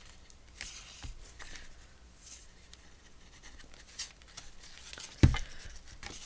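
Hands working paper, ribbon and fibers on a craft table: light rustling and small clicks, with one loud soft thump about five seconds in, as of something set down on the table.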